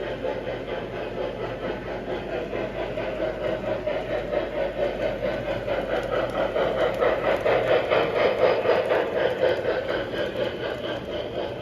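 Model train running on the layout track: a steady motor and gear hum with fast, rhythmic clicking of wheels over the rail, growing louder as the train passes closest and then easing off.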